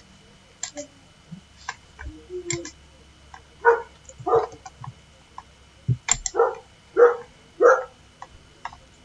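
Short animal calls, about five, each a fraction of a second, bunched in the middle, with faint scattered clicks around them.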